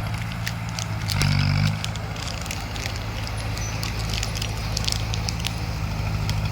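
Crawler bulldozer's diesel engine running steadily, swelling briefly louder about a second in, with scattered clicks and crackles from the tracks and crushed debris.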